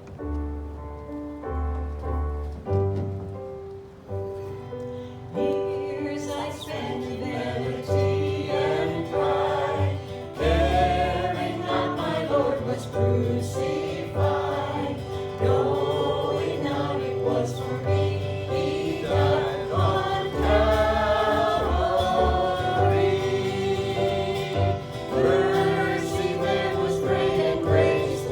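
A worship song with instrumental accompaniment: a few seconds of instrumental introduction, then voices singing together from about six seconds in.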